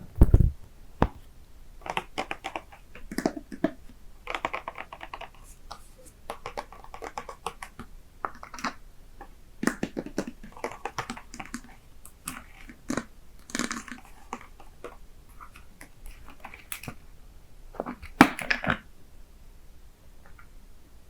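Close-miked mouth sounds of someone drinking coffee: sips, swallows and wet clicks in short clusters. A low thump comes just after the start, and a louder cluster about 18 seconds in.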